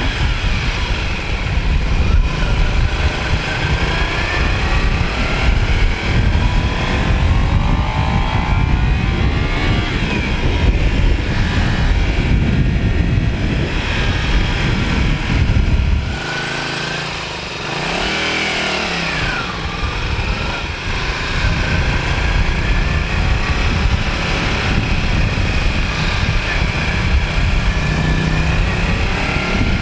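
Motorcycle engine heard from the rider's own bike while riding, its pitch rising and falling with throttle and gear changes, over a heavy rumble of wind on the microphone. About halfway through the wind drops and it goes quieter for a few seconds as the bike slows, then picks up again.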